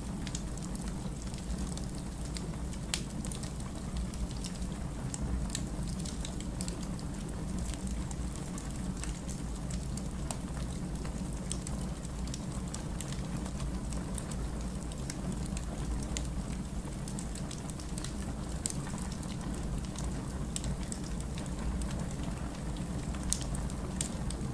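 Burning firewood crackling: scattered sharp pops and snaps over a steady low rumble, a couple of pops louder than the rest near the end.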